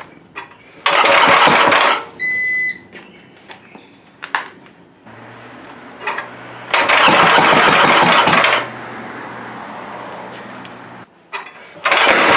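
Old Gravely tractor engine being pull-started without catching: three loud cranking bursts of about a second each. A steady low hum holds for several seconds around the second one and then cuts off suddenly. The owner takes the failure to start for wrong ignition timing.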